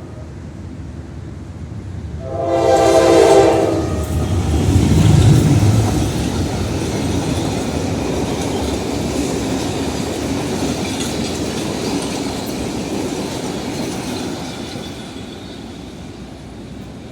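A diesel locomotive's horn sounds one chord-like blast of about a second and a half, then the locomotive passes close with a loud low engine rumble. The steady clatter of coaches rolling by follows and fades toward the end.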